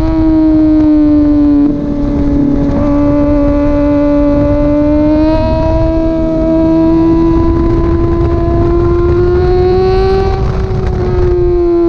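Honda CBR600RR inline-four engine running at high revs through a Two Brothers M2 carbon fiber slip-on exhaust. The note dips slightly about two and three seconds in, climbs slowly in pitch, then eases back near the end.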